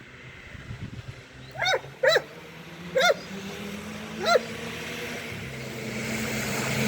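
A dog barking four times in short single barks, over the low steady running of an engine that grows louder near the end.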